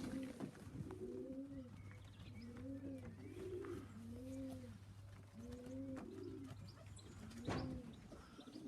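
Racing pigeons at the loft cooing, one arched coo after another, overlapping, with a faint steady hum underneath and a sharp click near the end.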